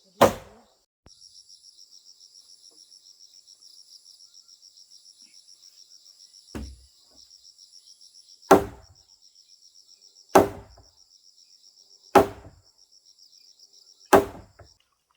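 Six heavy strikes about two seconds apart, the third one weaker, in the manner of a hammer or tool striking wood. Behind them an insect trills steadily at a high pitch, stopping just before the end.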